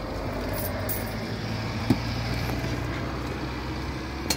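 Low, steady engine rumble of a motor vehicle on the road, swelling slightly and easing off. A sharp click about two seconds in and another near the end.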